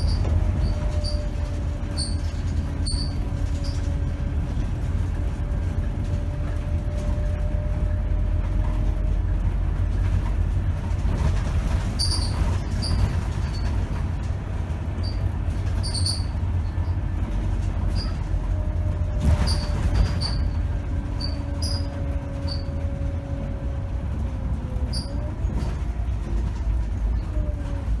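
Inside a Scania K270 city bus on the move: a steady low engine and road rumble with a faint drifting whine that rises again near the end. Frequent small rattles and squeaks from the bus's fittings, and a short hiss of noise about twenty seconds in.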